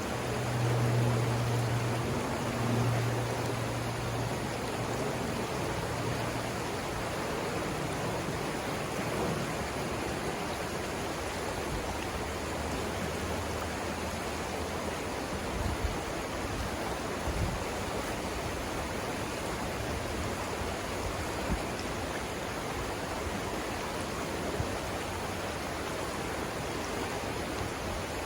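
Steady rush of water over river rapids. A low motor drone is heard for the first few seconds and fades out, and a few brief low thumps come in the second half.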